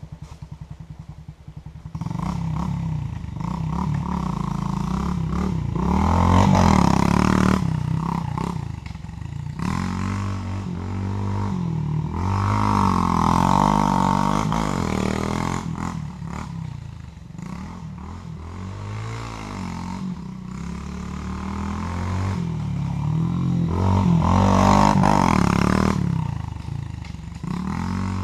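Pit bike engine being ridden hard around a small track, coming in about two seconds in and revving up and down through the turns. It grows loud as the bike passes close, about six, thirteen and twenty-five seconds in, then fades as it moves away.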